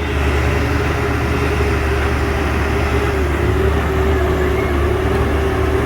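Heavy truck's diesel engine running steadily, with a deep rumble and a slightly wavering whine over it.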